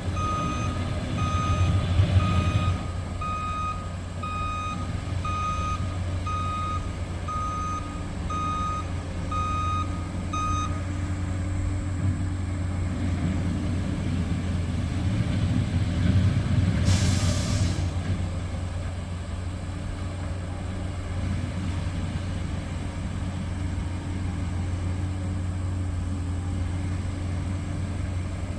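Gravel dump truck backing up, its reversing alarm beeping steadily, about one and a half beeps a second, over the diesel engine running; the beeping stops about ten seconds in. About seventeen seconds in comes a short hiss of air brakes while the engine keeps running.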